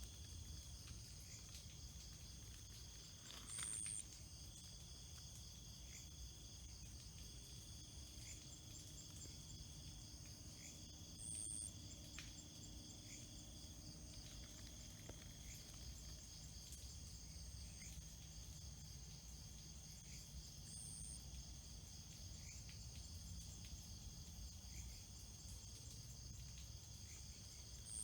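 Faint steady chorus of trilling insects, with a short, higher chirp repeating every seven to nine seconds.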